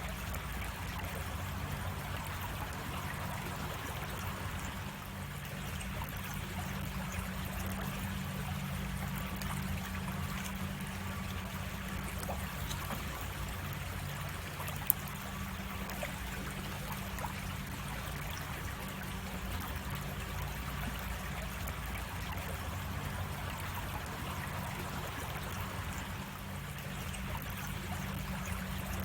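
Creek water running and trickling steadily, with a single sharp click about halfway through.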